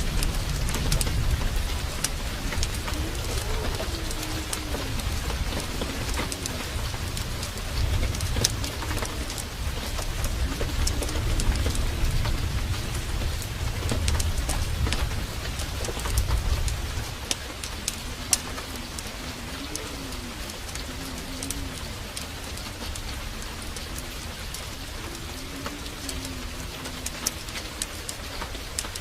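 Heavy rain pouring steadily, with a low rumble of thunder that dies away a little past halfway, and sharp crackles scattered throughout. A faint wavering tone rises and falls in the background.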